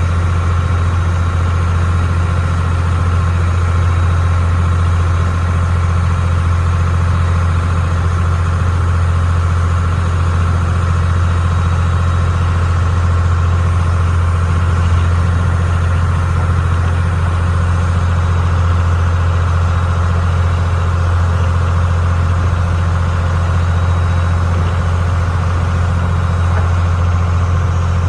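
Passenger ferry's diesel engine running at a steady pace, a loud, even low drone with no change in speed.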